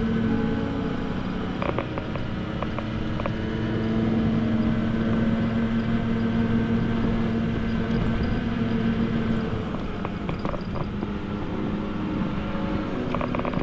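Motorcycle engine running steadily while riding, freshly rebuilt with a new piston after an abnormal engine noise. Its note dips slightly about ten seconds in, and a few sharp clicks sound over it.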